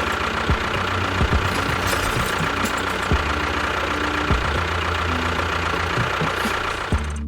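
An engine idling steadily with a low drone, with scattered sharp clicks over it.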